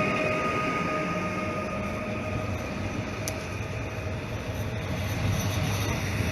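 Train running on the rails: a steady rumble with a faint whine that fades over the first couple of seconds, and one sharp click a little past halfway. The rumble grows louder again near the end.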